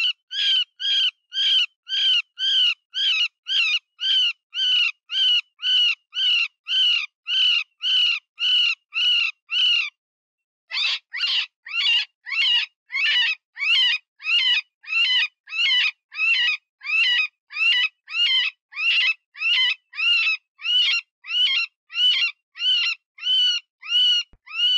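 Cottontail rabbit distress call: a steady string of short, high, wavering cries, about two a second, with one brief break about ten seconds in. It is the cry of a wounded rabbit, the sound used to lure predators such as coyotes and foxes.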